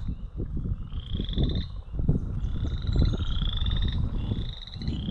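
Chorus frog calling close by: a rapid, comb-like pulsed trill, rising slightly, repeated about once a second. A louder low rustling rumble runs underneath.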